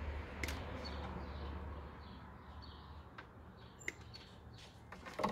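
A bird chirps over and over, a short high call about once a second, over a low rumble that fades after about two seconds. A few sharp clicks from hand tools working on car wiring come through, the loudest near the end.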